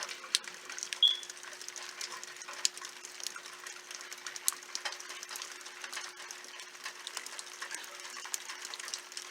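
Rain falling steadily, a hiss broken by many sharp ticks of drops striking hard surfaces.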